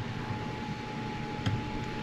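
Faint steady room hiss with a thin, steady high whine, and a single small click about one and a half seconds in.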